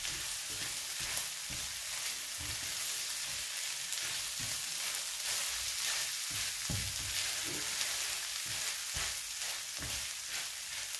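Vegan mince and onions sizzling steadily as they fry in a non-stick pan, stirred with a spatula that scrapes and knocks softly against the pan at irregular moments.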